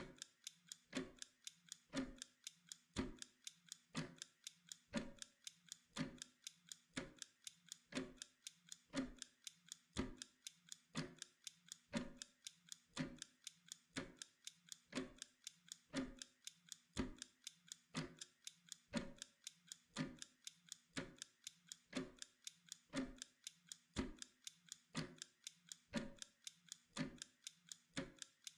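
Steady mechanical tick-tock of a ticking timer, about two ticks a second, alternating a louder and a softer tick.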